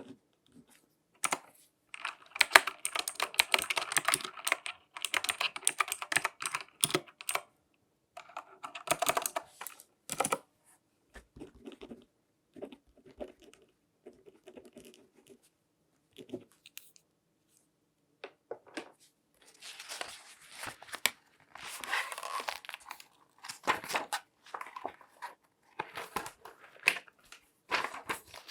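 Latex-gloved hands handling objects up close: bursts of crackly rustling and crinkling mixed with quick taps and clicks, in clusters separated by short pauses.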